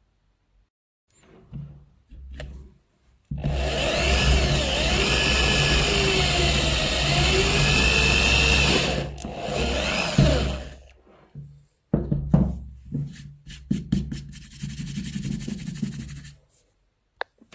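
A power tool running under load for about six seconds, its pitch wavering up and down, then a run of shorter bursts with quick rasping strokes.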